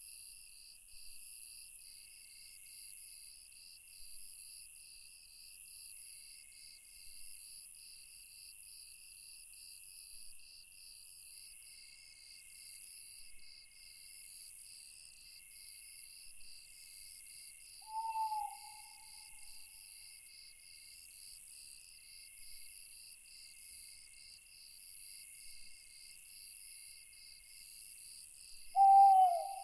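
Night forest ambience: a steady, pulsing chorus of crickets and other insects, with an owl hooting twice, once about two-thirds of the way through and again, louder, near the end.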